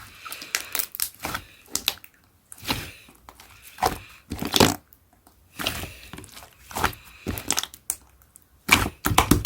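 Slime being squished and pressed by hand, with clusters of sharp crackling and popping clicks broken by short pauses.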